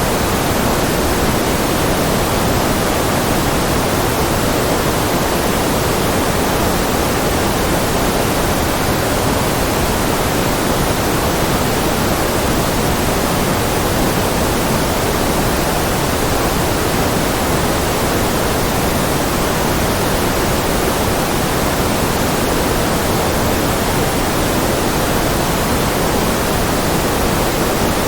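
Steady electronically generated noise, sold as white noise for concentration: an even, unbroken hiss that never changes. It is fuller in the low-middle range than in the treble.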